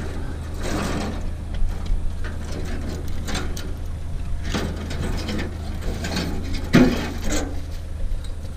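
Tangled barbed wire being handled: irregular metallic scraping and rattling, loudest about seven seconds in, over a steady low hum.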